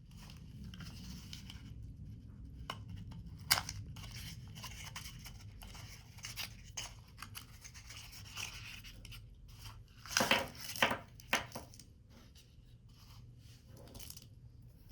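Paper being cut with scissors and handled: a run of short snips and rasps, loudest in a quick cluster about ten seconds in, over a steady low hum.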